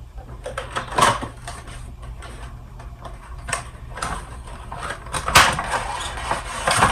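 Cardboard Funko Pop box being handled and opened: scattered knocks, scrapes and rustles of cardboard and plastic packaging, with a few sharper clicks.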